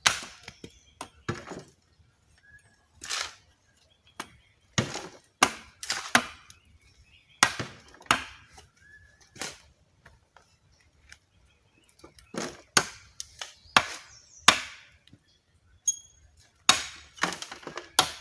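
A shovel driven into earth full of small roots and stumps, as a digger leans on the blade with his leg: a series of sharp, irregular strikes about a second or two apart.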